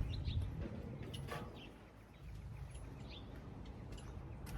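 Small birds chirping, a few short calls scattered through, over low rumbling background noise that is loudest at the start.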